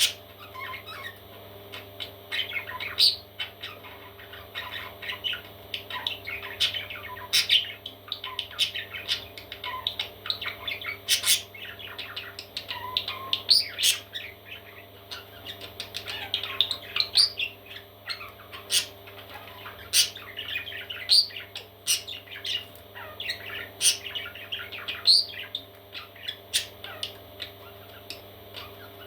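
Parrot chicks calling: a constant stream of short, high chirps and squawks, with sharper, louder squawks every second or two. A steady low hum runs underneath.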